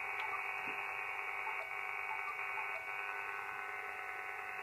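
Elecraft KX3 transceiver's receiver audio: a steady hiss laced with many steady whining tones, the interference that remains even with the RF gain turned down. It appears only while the KX3's USB control cable and the USB sound card fed from its RX IQ output are both connected.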